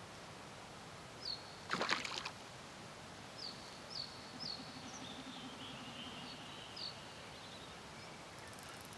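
A bird calling with short, high, repeated chirps over faint outdoor background, with a brief clatter about two seconds in.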